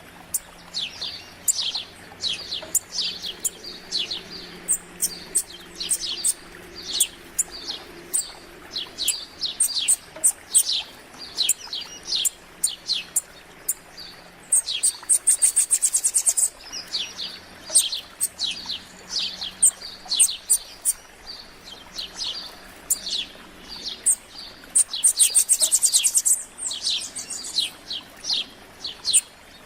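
Small songbirds chirping over and over in short, quick, downward-sliding notes, with two bursts of a rapid, very high buzzy trill, about fifteen and twenty-five seconds in.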